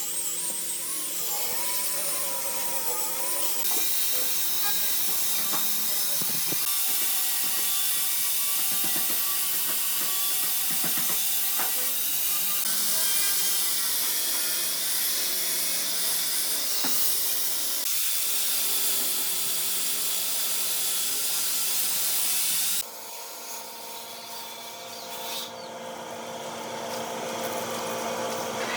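Power tools working wood, a steady noisy machine sound that changes abruptly several times from one tool or task to another. From about two-thirds of the way through it turns quieter, with a steadier hum.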